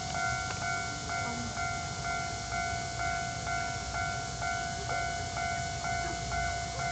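Level crossing warning signal ringing, a repeating electronic chime about twice a second, over a steady low rumble.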